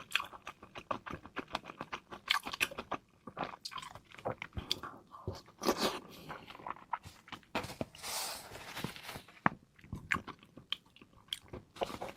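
Close-miked eating of raw seafood: wet chewing, smacking and crunchy bites in quick, irregular clicks, with a longer hissing noise about eight seconds in.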